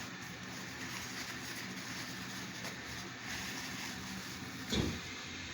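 Steady low hum of room noise. A short, louder sound falling in pitch comes near the end.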